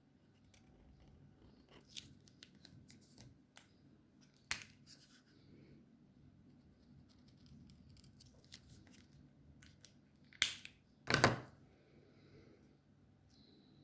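Alcohol markers working on paper: faint scratchy strokes and small clicks, with two louder short rasps about ten and eleven seconds in.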